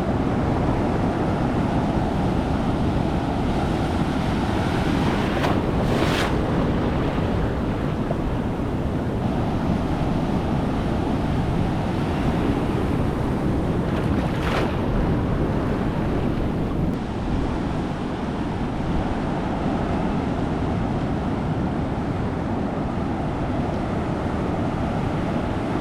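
Strong ocean surf breaking and washing around rocks, a dense steady rush, with wind buffeting the microphone. Two brief sharper splashes stand out, about six and fourteen seconds in.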